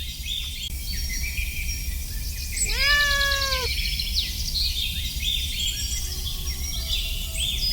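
A kitten meows once, a drawn-out mew lasting about a second, starting a little under three seconds in.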